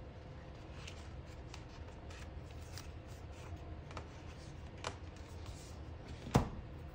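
Paper handling: a sticker sheet rustling with light ticks as a long, narrow box sticker is picked out and peeled, then a sharp tap about six and a half seconds in.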